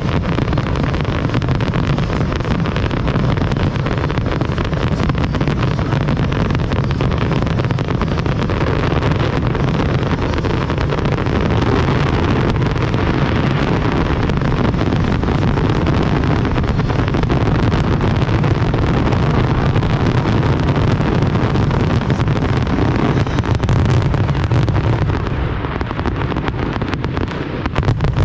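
A dense fireworks barrage: many rapid bangs and crackles merging into a continuous loud rumble.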